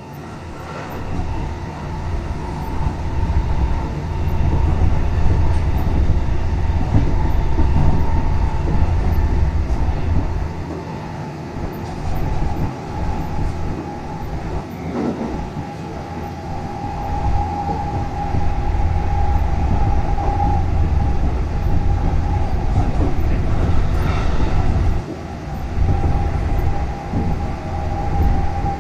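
Tobu Isesaki Line train running along the track, heard from inside the car: a steady low rumble of wheels on rail with a steady whine through it. The sound eases off a little partway through and builds again.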